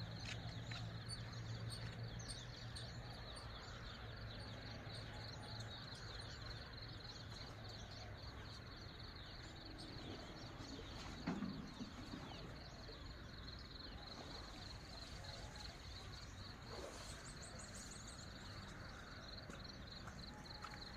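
Countryside ambience: birds chirping over a steady, rapid high chirping that runs throughout. A low hum fades out in the first few seconds, and there is a brief thump about eleven seconds in.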